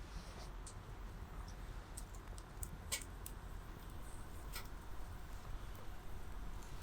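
Small wood fire in a camp stove crackling, with a few sharp pops (the clearest about three seconds in and again about four and a half seconds in) over a low rumble.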